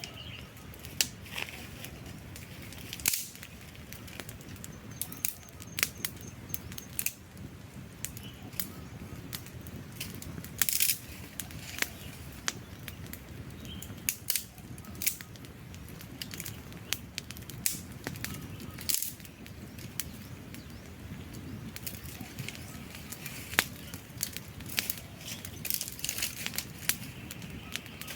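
Wood campfire crackling, with irregular sharp pops and snaps, a few loud, over the low steady rush of the burning logs.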